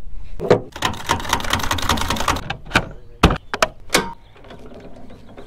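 Metal ratchet of a boat trailer's hand winch clicking rapidly in a long run as it is worked, followed by several separate sharp metal clunks from the trailer hardware.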